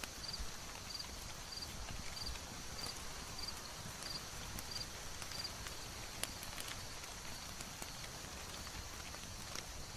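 Wood fire crackling with scattered sharp pops over a steady hissing background, layered into an ambience mix.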